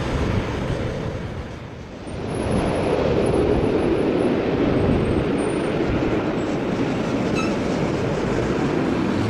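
Airliner landing in strong crosswinds, heard as a loud, steady rumbling roar of engines and wind. The roar dips briefly about two seconds in, then swells back and holds steady.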